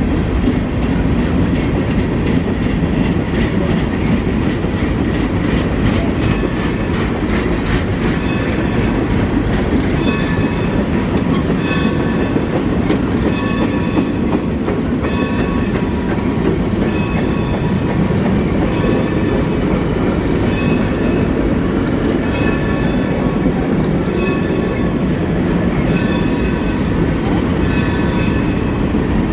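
Freight train rolling past at steady speed, its cars clattering over the rails. From about a third of the way in, a short ringing tone from the wheels repeats roughly every two seconds.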